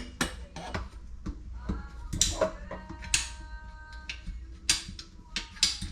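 Scattered sharp knocks and clinks of metal tools and plumbing parts being handled, some ringing briefly.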